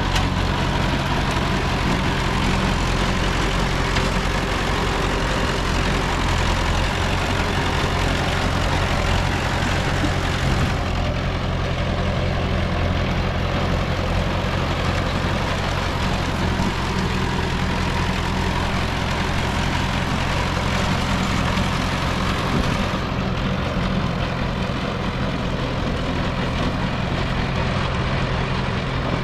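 Heavy diesel earthmoving machinery running steadily, its engine note low and even with no sudden changes.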